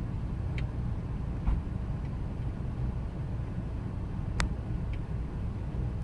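2000 Ford Expedition's 5.4-litre V8 running at a rough idle: a steady low rumble with a few sharp ticks, the loudest about four and a half seconds in.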